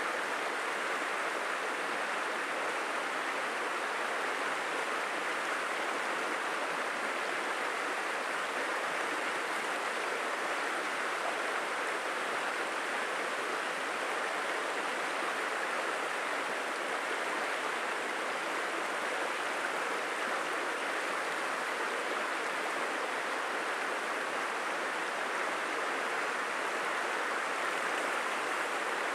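Steady rushing of a flowing stream, an even hiss of running water that holds the same level throughout.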